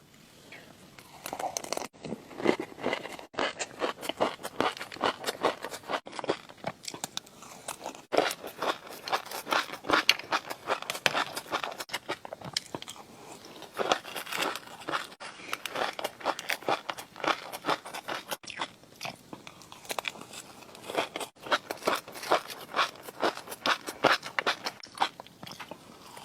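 Close-miked ASMR eating: crunchy food bitten and chewed in a rapid, continuous run of crisp crunches, several a second.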